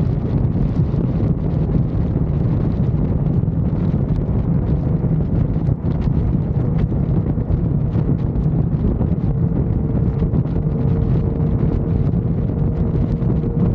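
Wind buffeting the microphone at highway speed on a motorcycle, over a steady drone of engine and road noise with no change in speed.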